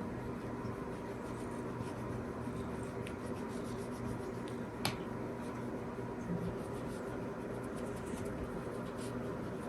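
A steady low hum with faint scratchy rustling, and one sharp click about five seconds in.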